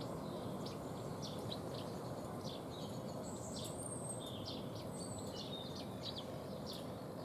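Small songbirds chirping, with many short high calls and a few brief thin whistles scattered through, over a steady background hiss.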